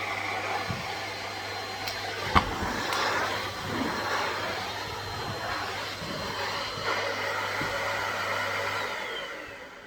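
Vacuum cleaner motor running steadily with the whoosh of air, then switched off near the end so that its sound falls away. A single sharp knock about two seconds in.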